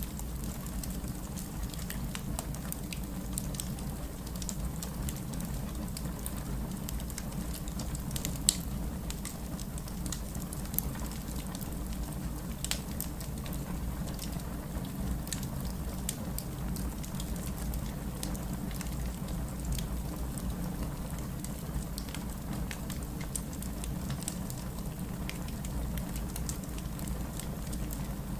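Wood fire crackling in a fireplace: a steady scatter of small pops and snaps over a low rumble, with one sharper pop about a third of the way in.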